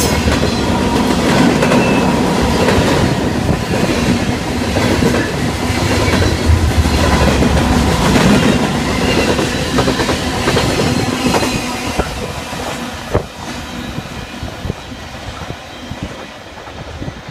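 Freight train cars rolling past, their wheels clattering over the rail joints with a steady rumble. The sound fades away over the last few seconds.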